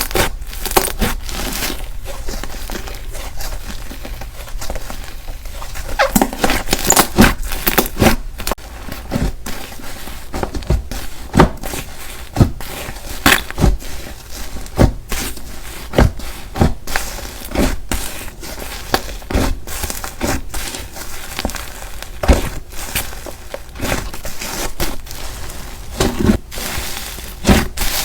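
Slime being squished and pressed by hand, with irregular crackling and popping clicks throughout.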